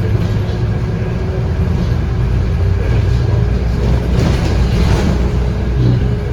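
Interior sound of a Scania K230UB bus under way: its 8.9-litre five-cylinder Scania DC9 diesel engine and ZF Ecomat automatic gearbox running with a steady drone and a faint held whine. There is a short burst of louder noise about four seconds in.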